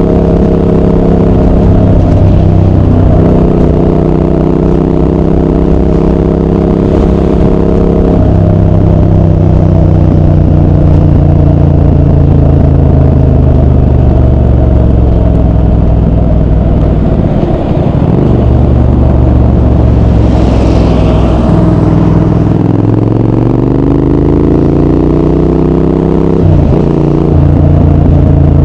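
Triumph Speed Twin 1200's parallel-twin engine and exhaust running under way, with a few quick gear changes. Its pitch sinks slowly over long stretches, then climbs steadily as the bike accelerates near the end.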